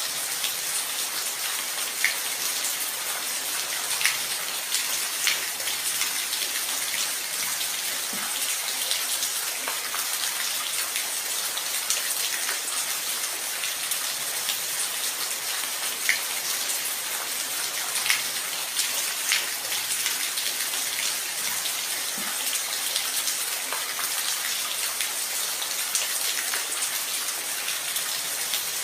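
Steady rain, an even hiss with the odd single drop landing close by as a sharp tick every few seconds.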